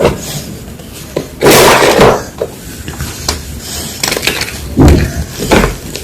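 Gym chalk being crushed, crunching in a few loud bursts with small crackles and clicks between them.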